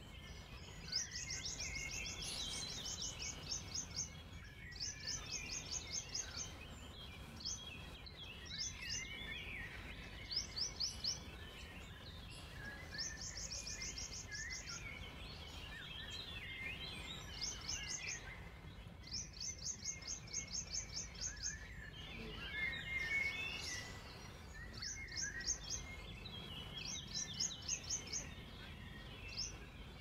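Songbirds singing: one bird repeats a quick, high trill of rapid even notes every couple of seconds, while other birds chirp and warble lower in pitch. A steady low background rumble runs underneath.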